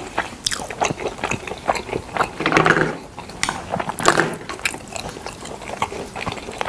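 Close-miked chewing and biting of smoked chicken: irregular wet smacks and clicks of the mouth, with two louder moments about two and a half and four seconds in.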